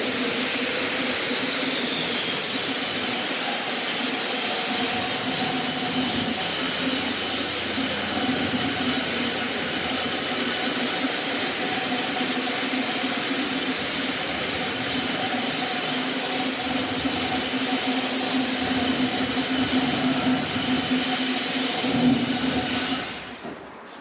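High-pressure water spraying from a self-service car wash wand onto a car, a loud steady hiss that stops near the end.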